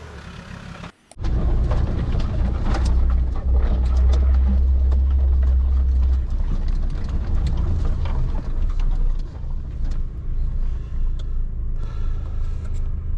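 An off-road 4x4's engine running as it drives a rough lane, with a loud steady low rumble and scattered knocks and rattles, starting about a second in.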